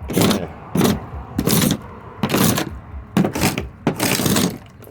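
Hand paint scraper dragged across a surface in repeated strokes, about six in all, scraping off old paint in preparation for repainting.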